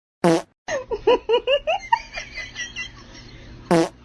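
Two identical short bursts about three and a half seconds apart, with a run of quick, pitched, laughter-like vocal notes between them.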